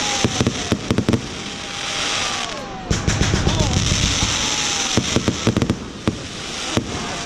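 Fireworks display: dense crackling and popping of bursting shells over a steady hiss, with stretches of low rumbling bangs, easing briefly just before 3 seconds and again around 6 seconds.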